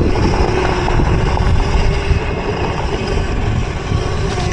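Electric mini bike riding over grass, with heavy wind rumble on the microphone and the motor's faint steady whine underneath.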